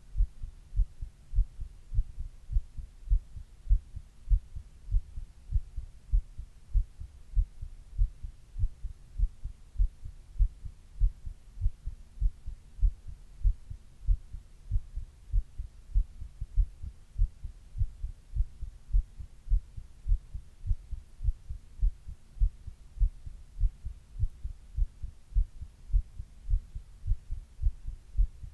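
Human heartbeat heard close up through the chest: a steady, even rhythm of low, muffled lub-dub thuds, over a faint steady hum.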